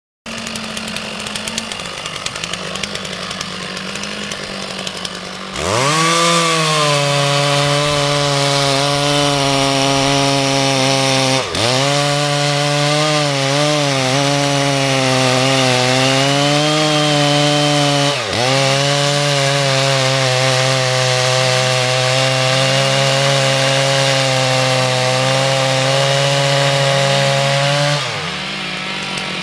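Two-stroke chainsaw cutting a tree during felling: it runs lighter for the first few seconds, then opens up to full throttle in the cut, its pitch wavering under load with two brief dips. Near the end it drops back to a lighter run.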